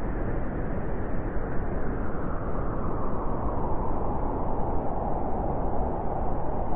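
Winter wind blowing steadily, a low rushing noise that swells a little in its middle range toward the end.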